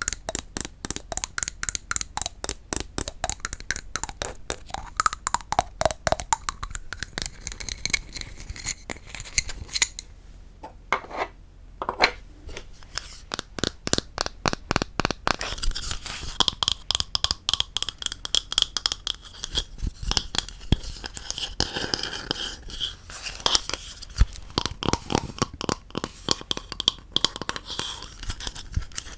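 Rapid tapping on wooden objects, several light taps a second, thinning out briefly in the middle; in the second half the taps mix with scratching across the wood.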